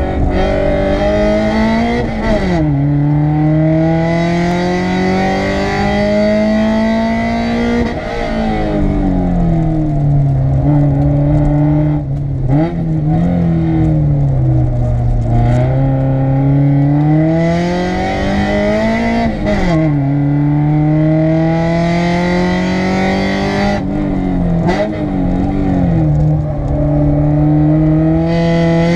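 Honda VTEC petrol engine heard from inside the cabin while driven hard, its pitch climbing steadily under full throttle and dropping sharply at each gear change, then sinking under braking into corners, several times over.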